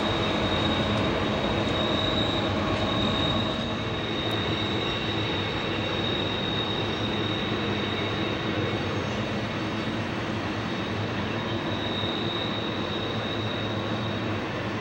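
Heavy freight train of loaded grain hoppers rolling downgrade around a tight curve: a steady rumble of wheels and cars with a thin, steady high-pitched flange squeal from the wheels on the curve.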